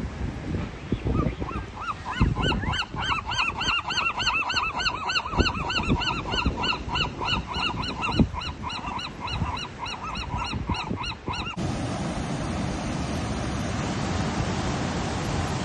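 A large flock of geese honking, many short arched calls overlapping several times a second, with wind rumbling underneath. About three-quarters of the way through, the calls cut off abruptly and a steady rushing noise takes over.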